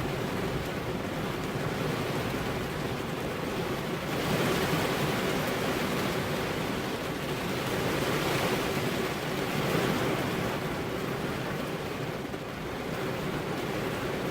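Rain falling on a car's window glass, a steady dense hiss that swells about four seconds in and again around eight to ten seconds.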